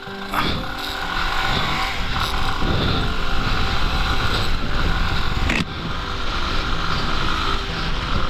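Motorcycle running on the road, its engine rumble under a steady rush of wind and road noise.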